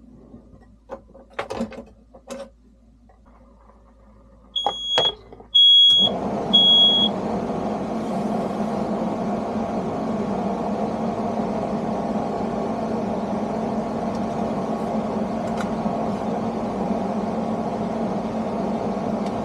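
Smoke alarm beeping three times in short, high beeps, set off by smoke from grilling a grilled cheese sandwich. A steady mechanical hum comes on suddenly as the beeps start and runs on, with a few light knocks before the beeping.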